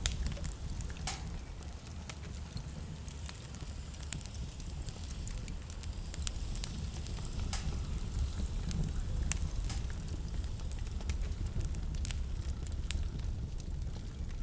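Wood fire burning in a fireplace: a steady low rumble of the flames under irregular sharp crackles and pops.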